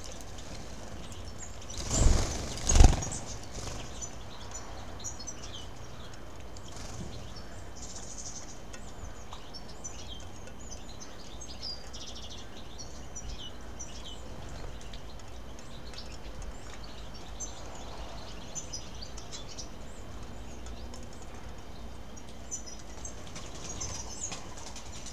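Small birds calling with short, faint, high chirps over steady outdoor background noise. About two and three seconds in come two brief, loud rushes of noise.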